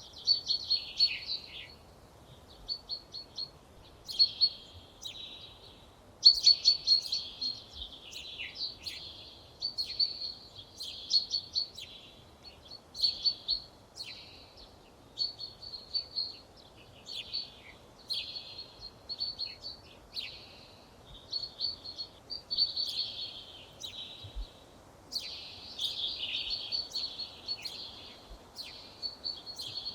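Songbirds singing: short high-pitched trilling and chirping phrases, one after another every second or two, over a faint steady background hiss.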